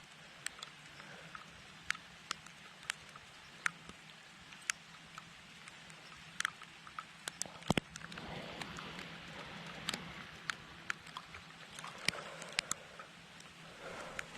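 Light rain falling: a steady hiss with scattered sharp ticks of single drops striking close by, thickening a little about halfway through.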